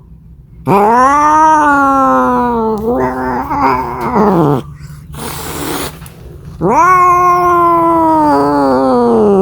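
Domestic cat yowling in two long, drawn-out calls that rise and then slowly fall in pitch, with a short hiss between them, the yowl typical of a cat calling for a mate.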